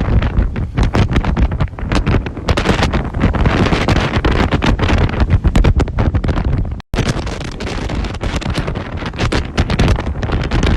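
Strong storm wind buffeting the microphone in heavy, irregular gusts, with a brief cut to silence about two thirds of the way through.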